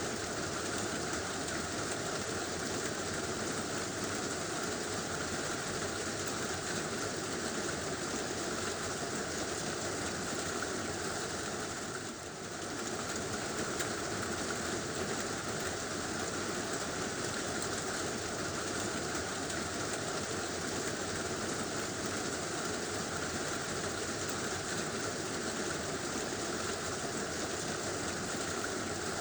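Heavy rain falling steadily on a tin roof, an even hiss that dips briefly about twelve seconds in.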